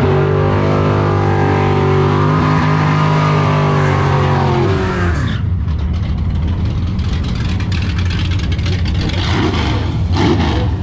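1957 Chevrolet drag car's engine held at high revs during a burnout, then backing off to a rough, lumpy running sound about five seconds in.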